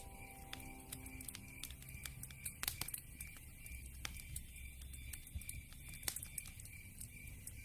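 Wood fire crackling, with irregular sharp snaps and pops over a low rumble; the loudest pops come near three seconds and six seconds in.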